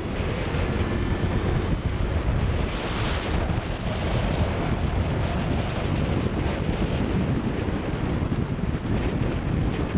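Steady rush of wind over the microphone of a motorcycle riding at speed, covering the engine.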